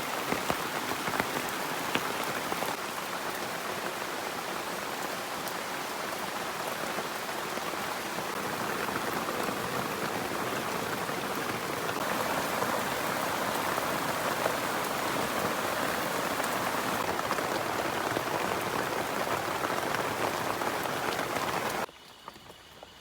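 Heavy rain falling steadily on a teak-leaf shelter, with scattered louder drops. It grows a little louder about halfway, then cuts off abruptly near the end to a much quieter background.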